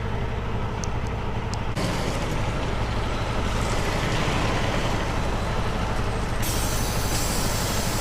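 Semi-truck diesel engine idling steadily, heard from inside the cab. About two seconds in a loud hiss comes in, with a brighter hiss added near the end.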